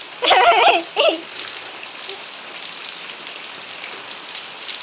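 Steady rain falling, an even hiss throughout. In the first second a brief high, wavering voice is heard.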